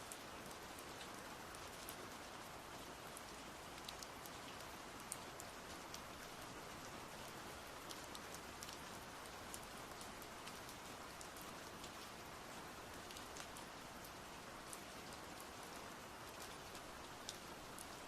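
Steady, even hiss like rain falling, with scattered sharp ticks throughout.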